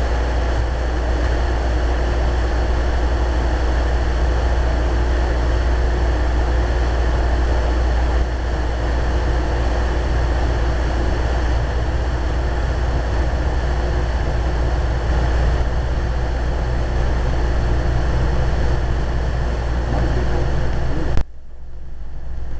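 Interior running noise of a Metrolink commuter train pulling out of a station: a loud, steady low rumble with a steady hum over it. The noise drops off sharply about a second before the end, leaving a quieter rumble.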